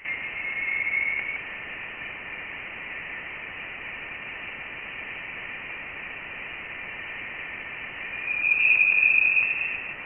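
Voyager 1's plasma wave instrument recording of interstellar plasma oscillations, amplified and played as audio: a steady hiss with a thin high whistling tone that swells about a second in and again, louder, near the end. The tone's pitch is set by the density of the interstellar plasma.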